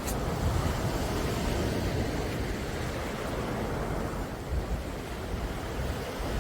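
Sea waves washing steadily on a calm sea, a continuous rushing noise with a low rumble. There is a brief sharp click right at the start.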